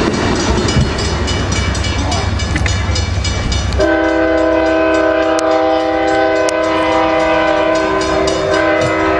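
Passenger train rolling past, with a low rumble and wheels clicking over the rail joints. About four seconds in, a multi-chime train horn starts one long steady blast that holds for about five seconds.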